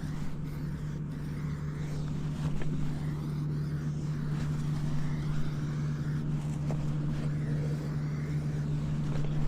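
Kubota SVL75-2 compact track loader's diesel engine running at a steady speed, with a few faint clicks over it.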